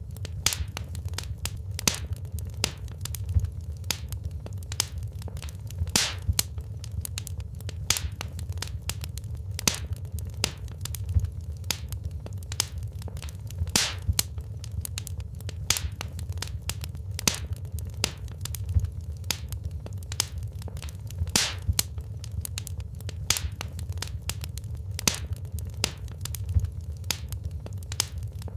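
Wood fire in a fireplace crackling: frequent sharp pops and snaps over a steady low rumble of burning flames.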